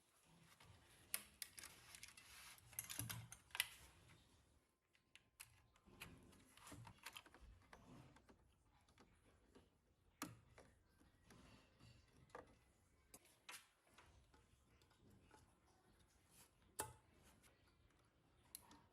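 Scattered small clicks and taps from hands handling parts or tools, busiest about one to four seconds in, then a few isolated clicks over near silence.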